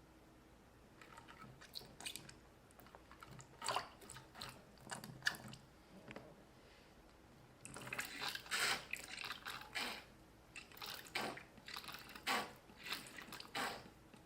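Irregular bursts of small splashes and wet plastic rustling as toy dolls and a floating fountain playset are moved about in water, in two stretches with a short lull between them.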